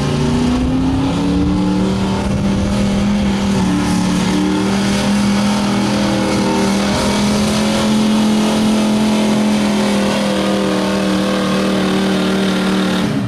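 1986 Ford F-350's gas engine held at high, steady revs under heavy load while dragging a pulling sled. The pitch climbs over the first two seconds, holds level, then cuts off suddenly near the end as the throttle is let off.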